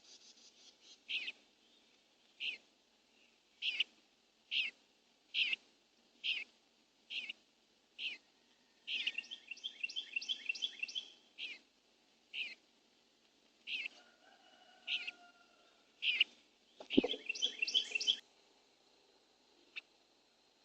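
A songbird repeating short, sharp call notes about once a second, broken twice by bursts of rapid chattering notes, over a faint steady hiss. A single dull thump comes near the end.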